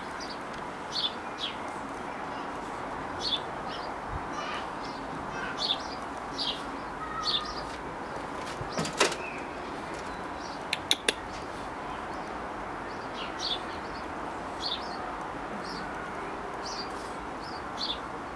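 Small birds chirping, short high calls repeated every second or two over steady background noise, with a few sharp clicks about halfway through.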